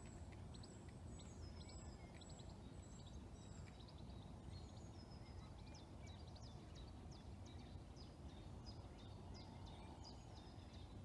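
Faint birdsong from several small woodland birds, many short high chirps and thin whistled notes overlapping, over a low steady background rumble.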